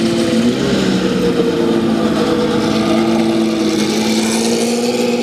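Porsche 917's air-cooled flat-twelve race engine running steadily at low revs, with a slight dip in pitch about half a second in.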